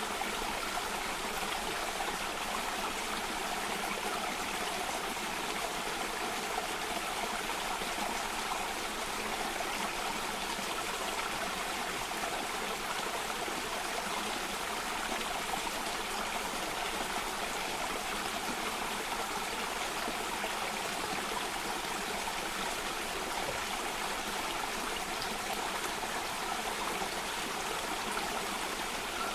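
Water cascading over rocks in a stream or small waterfall: a steady, even rush with no breaks.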